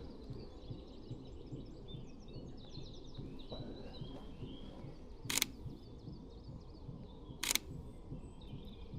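Sony A6700 camera shutter firing twice, about two seconds apart, while songbirds twitter steadily in the background.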